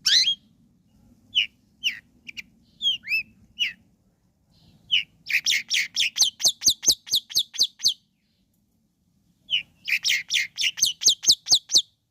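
Long-tailed shrike (cendet) song: a few scattered sharp chirps, then two fast runs of loud, even, down-slurred notes at about five a second, the first run about five seconds in and the second near the end.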